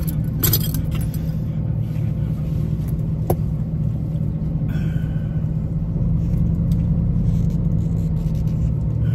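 Car engine idling, a steady low rumble heard from inside the cabin, with a metallic jangle just after the start and a single sharp click about three seconds in.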